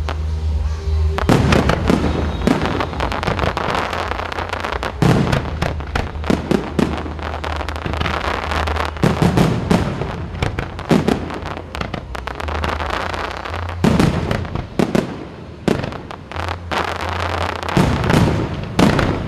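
Fireworks display: a continuous run of booming bursts and crackling, with louder clusters of bangs every few seconds.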